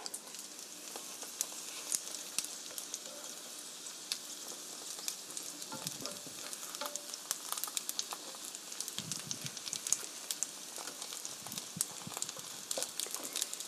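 Egg-and-flour-coated zucchini slices sizzling in oil in a frying pan over medium-low heat, a steady hiss with many small crackling pops. A few soft knocks come from tongs and a wooden spatula turning the slices in the pan.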